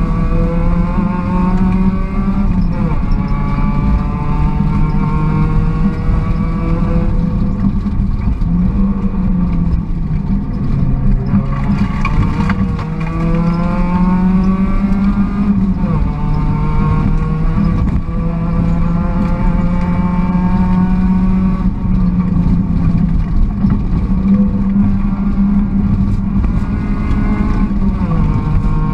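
Volkswagen Golf GTI rally car's engine under hard acceleration, heard from inside the cabin: the pitch climbs and drops back sharply at each gear change, several times, over a loud steady drone.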